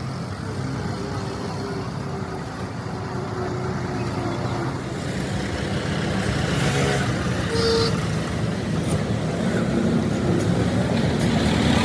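Steady vehicle engine and road traffic noise, with a faint short tone about eight seconds in.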